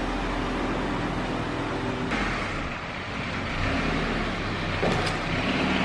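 Minivan engine running at low speed as the Chrysler Town & Country is driven slowly, then an abrupt change about two seconds in to a compact car's engine as it is driven slowly in; a short click near the end.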